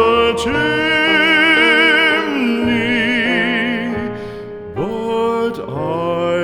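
Background music: a voice sings a slow ballad, holding long notes with wide vibrato over soft accompaniment. The held note drops in pitch about two and a half seconds in, and a new phrase swells up near the end.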